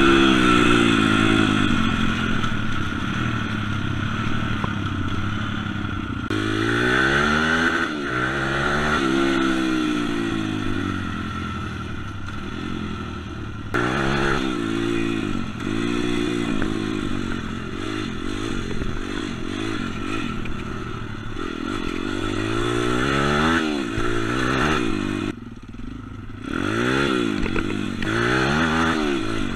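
M2R 140 cc pit bike engine revving up and down over and over as it is ridden, its pitch climbing and falling with each pull of the throttle. The engine drops off briefly near the end, then picks up again.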